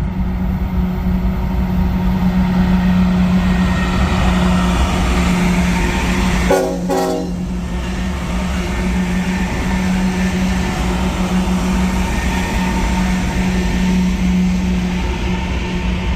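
Diesel-hauled train passing close by: a loud, steady low hum over continuous rolling noise, with a brief higher tonal sound about six and a half seconds in.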